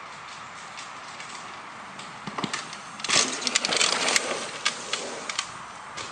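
A thrown broom crashing into a tree's branches: a burst of snapping and rustling twigs about three seconds in, lasting about two seconds, over a steady outdoor hiss.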